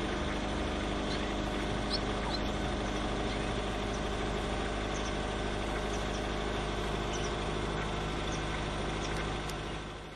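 A steady, engine-like hum drones on, with a few faint, short, high chirps scattered over it; it fades slightly near the end.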